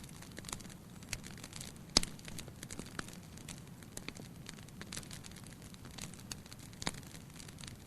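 Burning firewood in a fireplace crackling, with irregular sharp pops over a low steady hiss of the flames; the loudest pop comes about two seconds in, another near the end.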